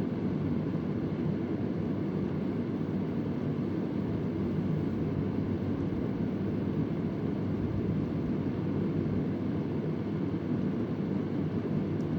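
Vintage Convair oscillating electric fan running steadily, a low, even rush of air with most of its weight in the bass. A faint tick sounds once near the end.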